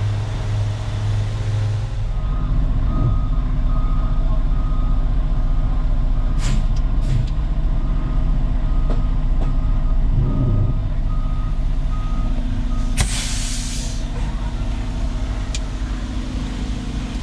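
Reversing alarm beeping steadily at one pitch over a heavy truck's diesel engine running. The beeping stops about 13 seconds in, and a burst of air hiss lasting about a second follows, an air brake releasing.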